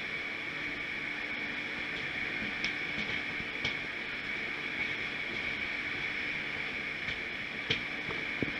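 Moving train: a steady running noise with a thin, steady high whine and a few light clicks.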